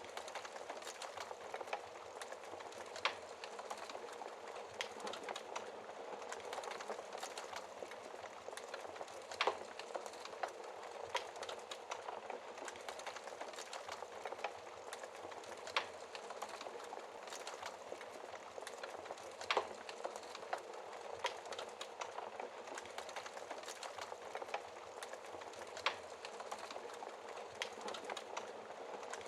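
Wood fire burning in a fireplace: a steady hiss and rustle of flames with irregular crackles and pops, a few sharper snaps standing out.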